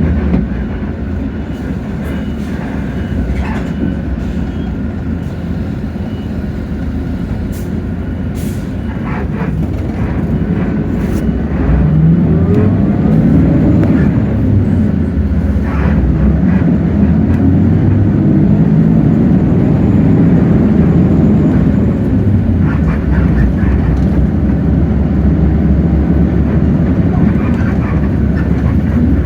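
Hino J08E-VN 7.7-litre six-cylinder diesel of a city bus, heard from on board. It runs steadily and low at first, then grows louder about twelve seconds in, its pitch rising and falling as the bus pulls away through the gears. A few short clicks come just before it picks up.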